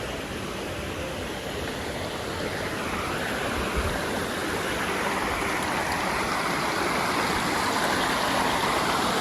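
Water running in a garden stream or small waterfall, a steady rushing that grows gradually louder.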